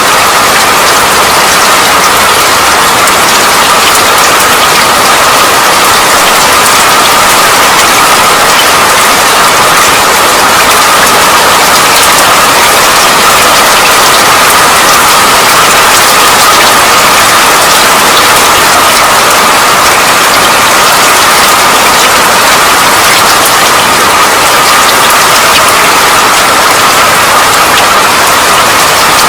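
Steady rain falling, a constant dense hiss with many small drop ticks.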